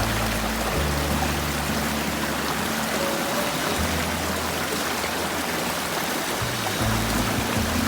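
Steady rush of a fast-flowing mountain stream, with background music carrying low held notes that shift every second or so.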